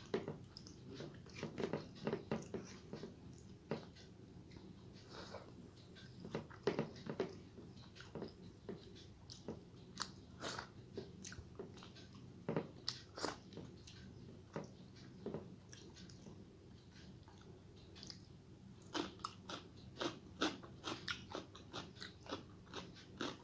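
Close-miked chewing of a mouthful of rice and fried food eaten by hand: irregular wet smacks and short clicks, with a quieter stretch about two-thirds of the way through.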